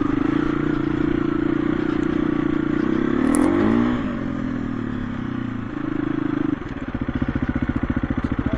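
KTM EXC-F 350 dirt bike's single-cylinder four-stroke engine running at steady revs, dipping and picking up again about three and a half seconds in, then dropping to a slow, evenly pulsing low-rev beat for the last couple of seconds.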